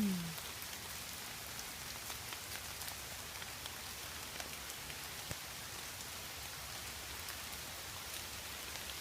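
Steady rain falling, an even patter with scattered sharper drop ticks. A short falling tone is heard at the very start.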